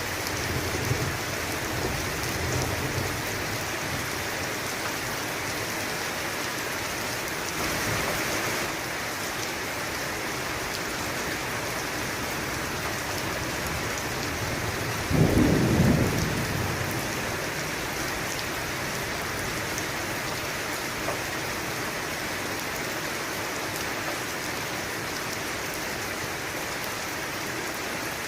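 Steady heavy rain with thunder. Low rumbling runs through the first few seconds, and a loud clap of thunder comes about halfway through and rolls away over a couple of seconds.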